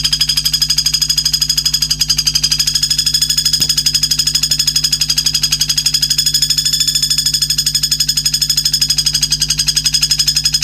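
A fast, steady, high-pitched trill made of rapid even pulses, with a steady low hum beneath. It is a recorded call played as an isian track for songbird training.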